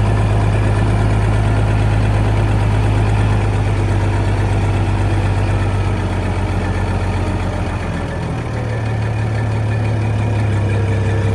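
An engine idling steadily with a low, even hum that eases slightly about eight seconds in and then picks up again.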